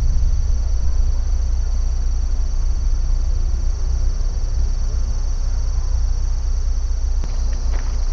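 Insects trilling steadily in a high, even chorus over a constant low rumble, with a few short clicks near the end.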